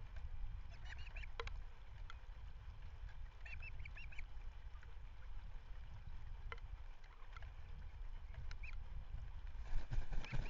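Short bird calls over steady wind rumble on an outdoor webcam microphone. Chirps come about a second in, again a few seconds later, and in a cluster near the end.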